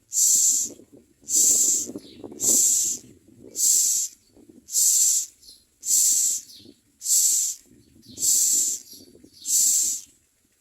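Common myna nestlings giving harsh, hissing begging calls, about one rasp a second in a steady rhythm, as they beg for food.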